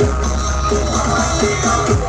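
Loud electronic music with heavy bass played through a large sound system.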